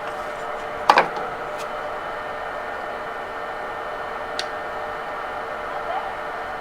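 A sharp metallic clink about a second in, then a lighter tick later, from metal parts and hand tools being handled while a mower wheel hub is taken apart, over a steady workshop hum.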